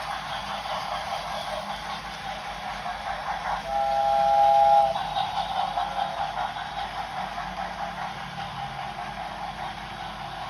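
Steam locomotive running, with one short blast of its chime whistle, several tones together for about a second near the middle, over a steady running noise.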